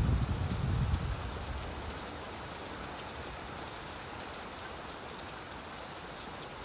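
Steady rain falling, an even hiss. A low rumble, thunder rolling away, fades out over the first second or two.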